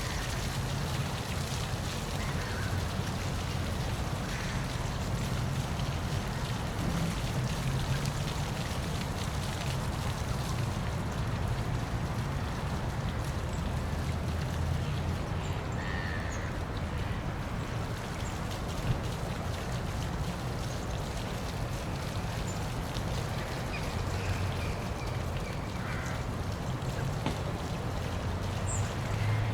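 Waterfall splashing steadily, a constant rushing noise heaviest in the low rumble. A few faint short animal calls sound over it now and then.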